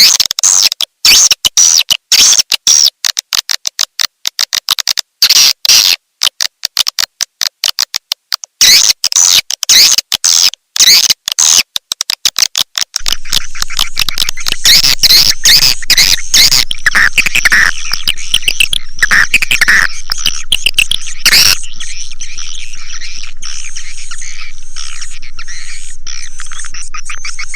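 Swiftlet calling recording: rapid high chirps and twitters in quick bursts broken by short gaps, turning about halfway into a continuous dense twittering. This is the kind of lure call played to draw swiftlets into a nesting house.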